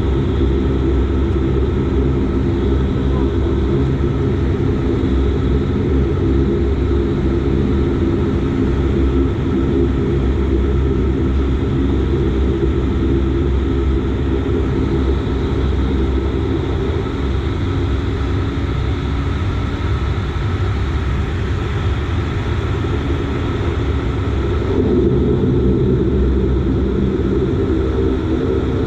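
Dash 8 Q400's Pratt & Whitney PW150A turboprop engines and propellers running, a steady droning hum heard inside the cabin, growing somewhat louder near the end.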